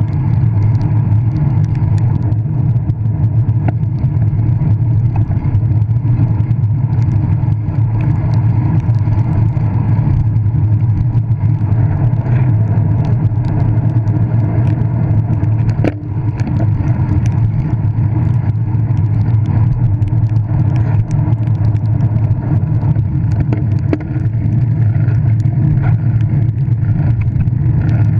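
Steady low rumble of wind and tyre noise picked up by a GoPro on a bicycle riding in the rain, with scattered small ticks throughout.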